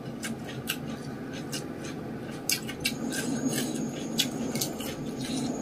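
Close-miked eating by hand: chewing with many scattered small clicks and crunches, and light rustling as fingers pick up raw vegetables and rice.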